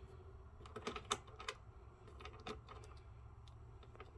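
Scattered light clicks and taps of small screws and metal parts being handled by hand, several in quick succession in the first second and a half, then a few more spaced out.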